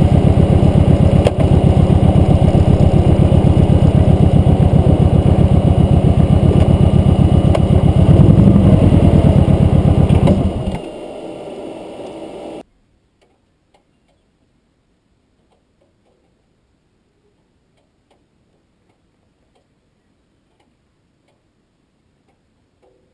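Motorcycle engine running with a steady, even beat, a little louder around eight seconds in. It stops abruptly about eleven seconds in, leaving a low steady hum that cuts off about two seconds later. After that there is near silence with a few faint ticks.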